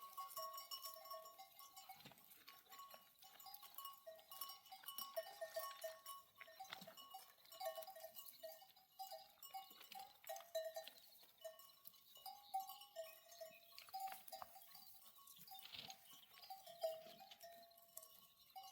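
Faint, irregular clinking of bells worn by a grazing flock of sheep and goats, many small bells ringing at a few fixed pitches as the animals move.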